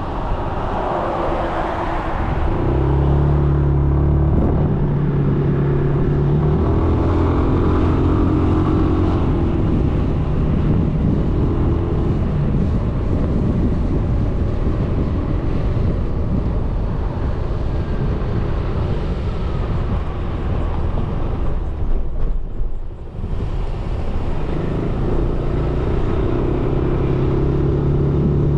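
Suzuki Burgman 400 scooter's single-cylinder engine running under way, with steady wind and road noise on a bike-mounted camera. The engine hum rises and settles with speed, and the noise briefly drops about 22 seconds in.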